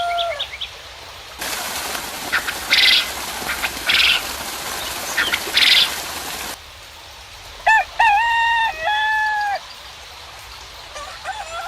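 Rooster crowing: one long call that swoops up and then holds its pitch, about eight seconds in. Before it, about five seconds of steady rain hiss start and stop abruptly, with three short calls inside them. The tail of another crow comes at the very start, and another begins near the end.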